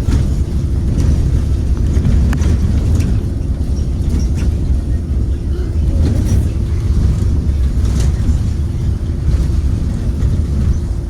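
2023 Blue Bird Vision school bus with a Ford 7.3L V8 running on the road, heard from inside: a steady, loud low engine and road rumble with a faint steady hum, and scattered sharp rattles and knocks from the body.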